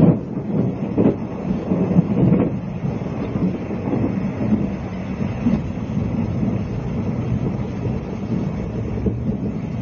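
Running noise inside a 20-series sleeper passenger coach on the move: a steady low rumble of wheels and bogies on the rails, with a few louder knocks in the first two and a half seconds.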